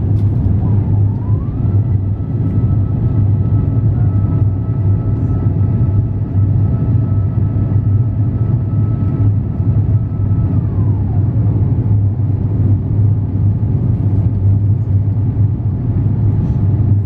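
Steady cabin rumble of an Airbus A350-900 in flight after takeoff: engine and airflow noise. About two seconds in, a mechanical whine rises in pitch, holds steady, then glides down and fades near the middle of the stretch.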